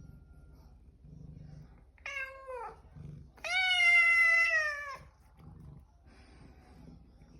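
A house cat meowing twice: a short call that falls in pitch about two seconds in, then a longer, louder meow that holds its pitch and dips at the end.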